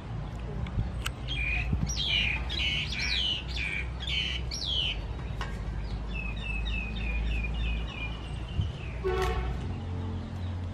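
Birds calling: a run of downward-sweeping whistled notes, then a quicker series of short repeated chirps, and a brief harsher call about nine seconds in.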